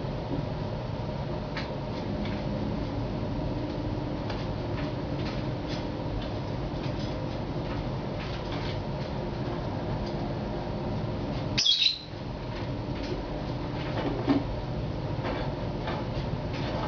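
A pet bird gives one loud, sharp squawk about twelve seconds in, over a steady background hum with scattered faint ticks.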